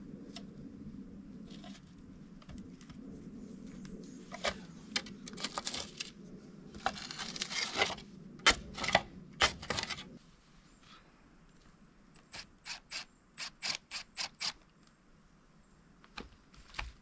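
Mechanical clicks and scraping, as of hand tools on metal, over a low steady hum that stops about ten seconds in. Later comes a quick even run of about eight sharp clicks.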